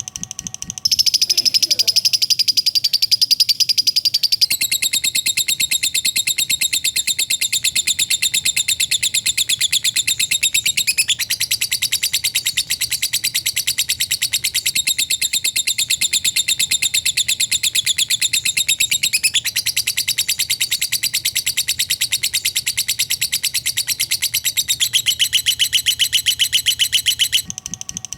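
Lovebird 'ngekek': a long, unbroken chattering trill of very rapid high notes, used as a training song for other lovebirds. The trill shifts abruptly in pitch several times, as if spliced together.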